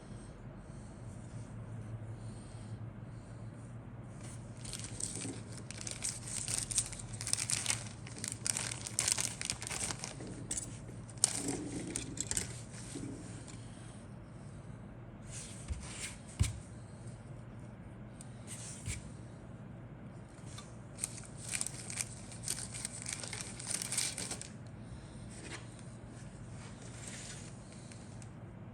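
Plastic packaging crinkling and rustling in irregular bursts as it is handled, the kind of sound made by bagged model-kit parts being lifted and turned over, with a short knock about halfway through.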